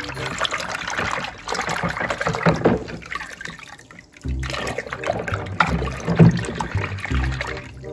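Soapy water sloshing and splashing in a plastic tub as a hand scrubs small toy cars under the surface. The sloshing dips briefly about four seconds in, as a car is lifted out of the water, then resumes as it is plunged back in.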